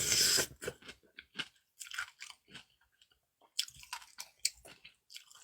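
A person chewing fried dumplings close to the microphone: a louder burst at the start, then a run of short, crisp, uneven crunches.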